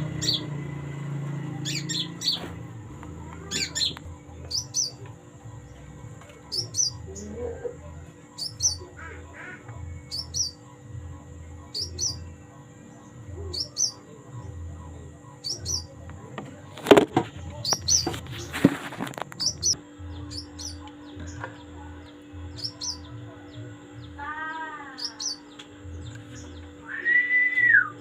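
Small bird calling: a short high chirp repeated about once a second, with a few lower, arching whistled calls near the end. A sharp knock and a brief burst of rustling noise come about two-thirds of the way through.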